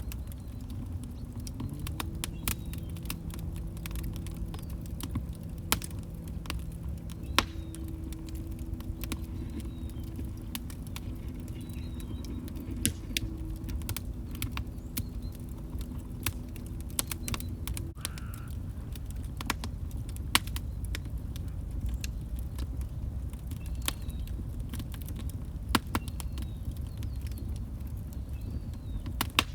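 Log fire crackling: a steady low rumble of flames with sharp pops and snaps scattered irregularly throughout. A faint low hum sits under it for the first half and stops about 18 seconds in.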